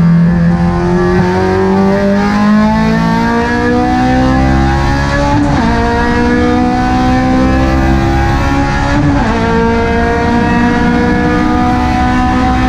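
Honda Civic Type R FD2's K20A 2.0-litre four-cylinder VTEC engine pulling hard under full throttle, its pitch climbing steadily. It is briefly interrupted by two upshifts, about five and a half seconds in and again about nine seconds in, each followed by a renewed climb.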